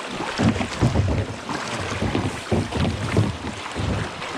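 Wind buffeting the microphone in irregular low rumbling gusts, over the rush of water around a small kayak.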